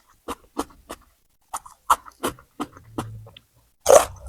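Close-miked chewing of crunchy raw vegetables, with crisp, irregular crunches. There is a short pause about a second in and a louder burst of crunching near the end.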